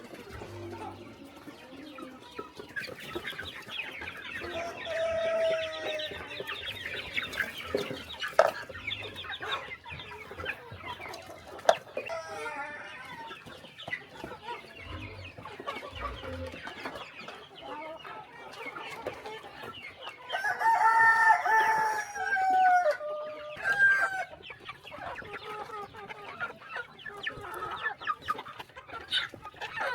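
Chickens clucking, with a rooster crowing loudly about twenty seconds in, a call of some three seconds that drops in pitch at its end. A few sharp clicks come in between.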